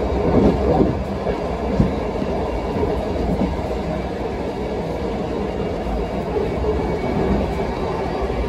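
Passenger train running along the track: a steady rumble of wheels on rails, with a few knocks in the first two seconds, the sharpest just under two seconds in.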